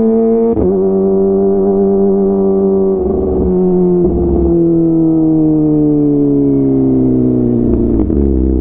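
Kawasaki ZX-25R's 250 cc inline-four engine through a DX Generation GPR full-system exhaust while riding. The note climbs briefly and breaks sharply about half a second in, then falls slowly for about seven seconds as the bike rolls off the throttle. Near the end a click is followed by a lower, uneven note.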